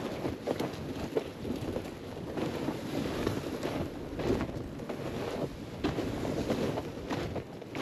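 Strong wind buffeting the microphone in irregular gusts.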